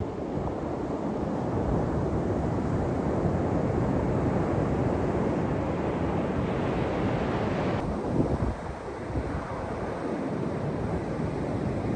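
Ocean surf washing onto the beach, with strong wind buffeting the microphone; the hiss thins out about eight seconds in.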